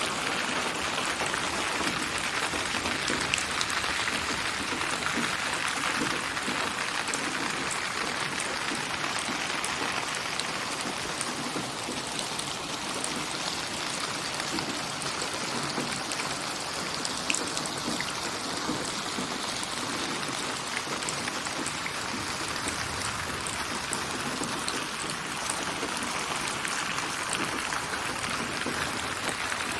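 Steady rain: a dense hiss of falling rain with many small drop ticks, its strength and focus drifting slowly. It is a synthetic rain ambience built from layered rain samples and spatialised so that it moves around the listener.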